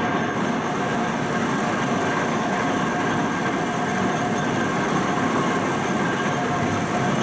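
Machinery running steadily: a dense, even mechanical noise with a few constant whining tones through it.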